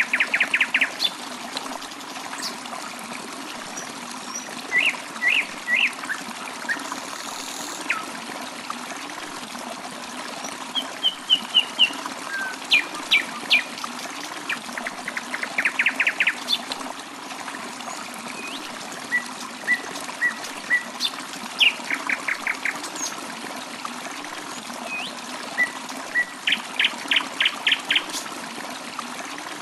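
Birds chirping in short, rapid runs of notes every few seconds over the steady trickle of running water.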